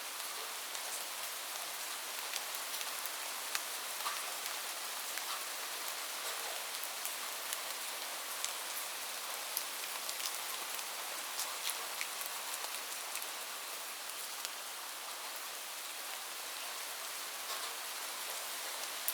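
Steady rain: an even hiss with individual drops ticking sharply here and there.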